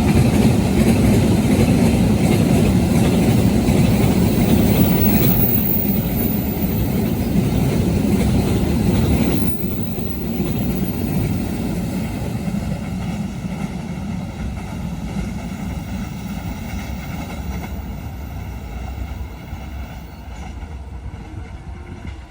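Train passing on the rails with a loud, dense rumble. The noise drops suddenly about halfway through, then fades steadily as the train draws away.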